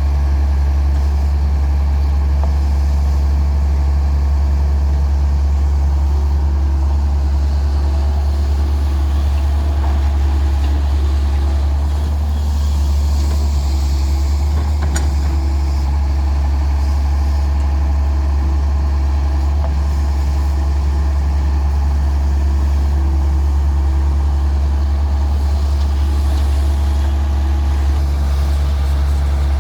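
Daewoo 170W-3 wheeled excavator's diesel engine running steadily under work, a loud, deep, even hum.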